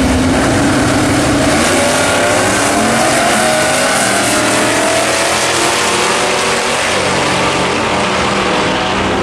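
Drag-racing car's engine running at high revs, loud and steady, its pitch gliding upward a couple of seconds in.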